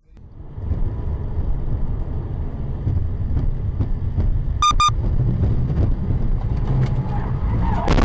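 Steady engine and road rumble of a moving car, heard from a dash cam, with two short high beeps a little past halfway. Near the end a rising noise turns into sharp clattering, the start of a skid or collision.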